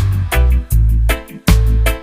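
Roots reggae music with no vocals: a deep bass line and drums keeping a steady beat under chords.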